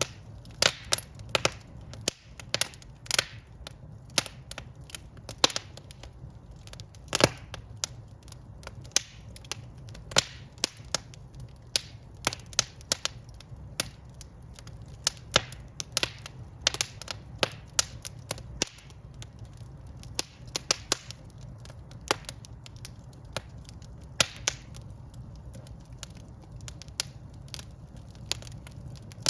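Wood fire burning in a fireplace: irregular sharp crackles and pops from the burning logs, over a steady low rumble of the flames.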